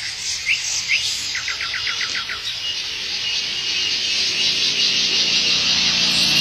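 Bird chirping: two short rising notes, then a quick run of about seven notes, over a steady high hiss that grows louder toward the end.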